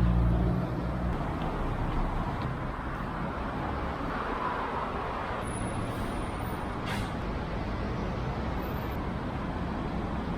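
Road traffic noise: a motor vehicle's engine rumbles loudly for about the first second and then fades into a steady traffic din, with one brief knock about seven seconds in.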